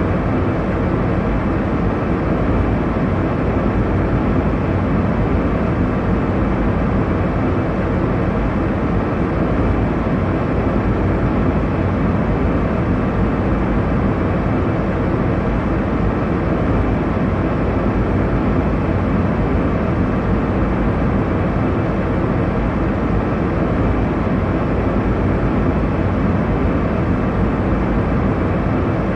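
Airliner cabin noise in flight: a steady, even rush of engine and airflow noise, heaviest in the low end, with no change or events.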